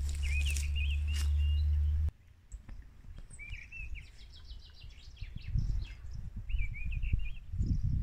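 Small songbirds chirping and singing in short warbled phrases, with a quick run of repeated notes in the middle. A loud steady low hum stops abruptly about two seconds in, after which gusts of wind rumble on the microphone.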